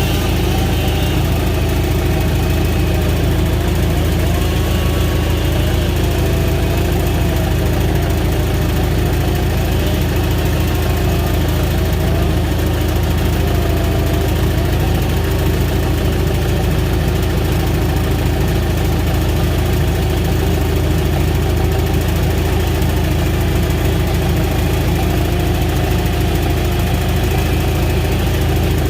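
Heavy diesel engine of a logging machine running steadily, with a faint whine that wavers up and down in pitch every second or two.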